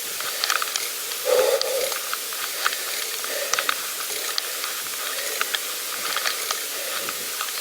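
Steady hiss of a pedal bike riding along, with tyre noise and air rushing past, and scattered light ticks and crackles throughout. A brief louder sound stands out about a second and a half in.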